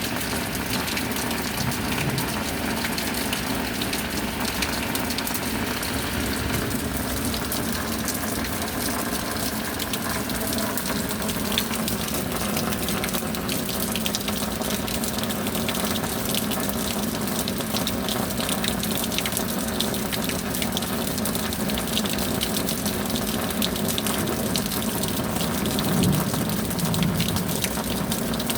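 Heavy, steady rain, with countless individual drops ticking through a continuous rushing hiss.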